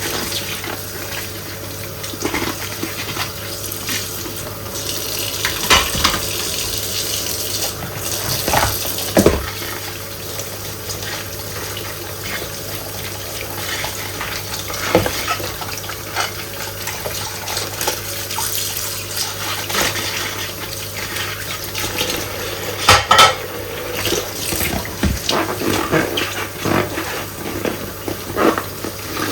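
Dishes being washed by hand at a sink: a running tap's steady rush of water, with scattered clinks and knocks of dishes being handled, the loudest cluster about three-quarters of the way through.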